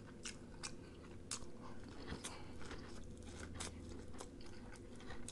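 A person chewing food, faint irregular crunches and mouth clicks.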